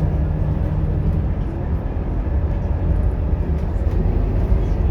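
Scania K230UB Euro 4 bus's five-cylinder diesel engine running steadily under way, a constant low rumble with road noise.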